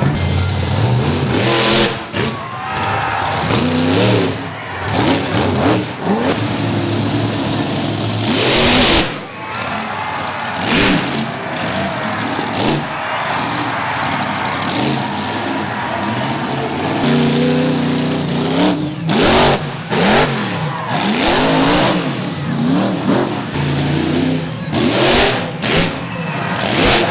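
Monster truck engine revving hard and repeatedly, its pitch rising and falling with the throttle. Many loud, sudden bangs break in, the biggest about nine seconds in.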